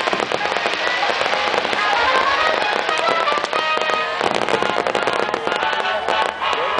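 Many fireworks bursting and crackling in rapid succession, a dense run of sharp pops, with music playing alongside.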